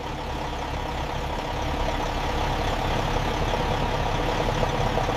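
A machine running steadily, an even mechanical drone with a faint steady hum.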